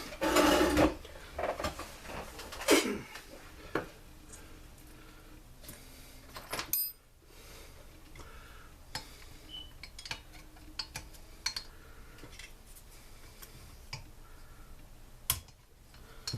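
Hard parts and tools of a two-stroke backpack blower being handled during teardown: a loud scraping rattle right at the start, a sharp knock about three seconds in, then scattered small clinks and knocks.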